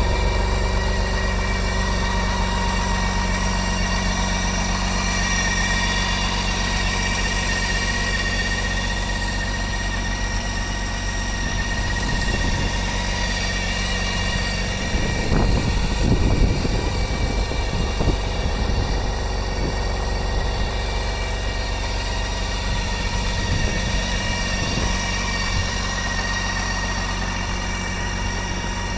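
Motorcycle engine idling steadily, with a few short knocks or blips in the middle of the stretch.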